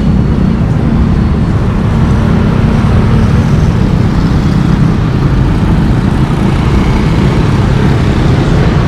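Street traffic: a steady, loud low rumble of passing motor vehicles, with no single event standing out.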